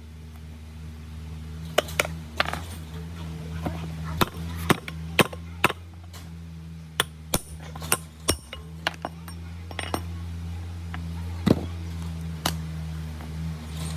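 Irregular sharp metal taps and clinks of hand tools on machine parts, over a steady low electric-motor hum.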